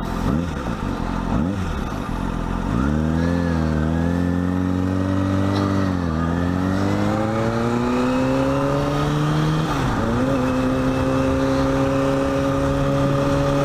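Kawasaki Ninja ZX-6R's inline-four engine pulling away at low revs over wind and road noise: its pitch climbs slowly, drops at upshifts about six and ten seconds in, then holds steady.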